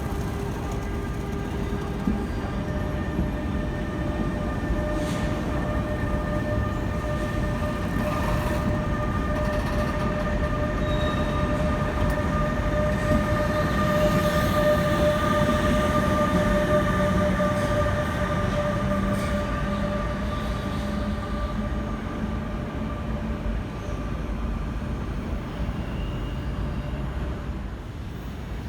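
Train moving through a station with a steady high whine over its rumble, which swells to its loudest midway and then fades away.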